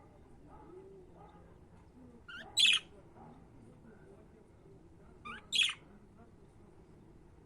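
Budgerigars calling: two loud, sharp calls about three seconds apart, each just after a shorter call, over faint soft chirping.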